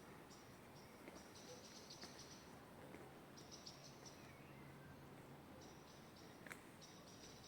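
Faint insect chirping in repeated pulsed bursts, a group every second or so, with a few faint bird chirps and a single sharp click about six and a half seconds in.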